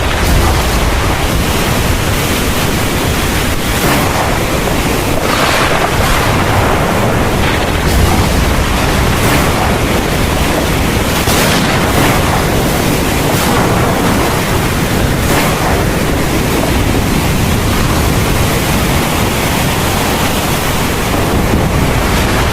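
Heavy rain pouring steadily in a thunderstorm: a dense, even hiss with a continuous low rumble beneath it, swelling slightly a few times.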